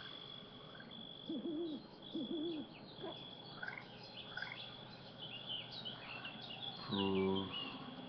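Faint birdsong: scattered small high chirps, with two short low hoot-like calls about one and two seconds in.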